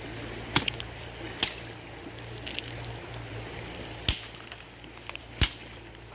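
Dry wooden sticks snapping and knocking while a fire is being built: five sharp cracks at irregular spacing over a steady low hum.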